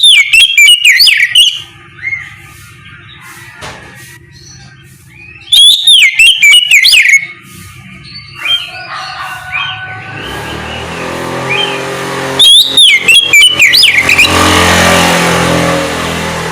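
Oriental magpie-robin (kacer) singing loud, clear whistled phrases in three bursts, each a quick run of rising and falling notes lasting about a second and a half. A steady background sound builds up in the second half.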